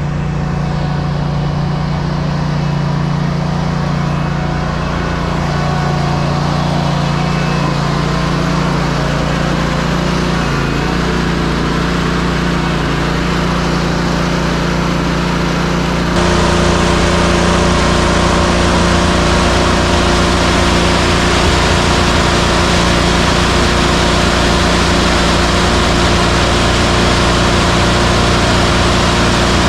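Heavy diesel engine running steadily at the concrete pour, its sound stepping up louder and brighter about 16 seconds in.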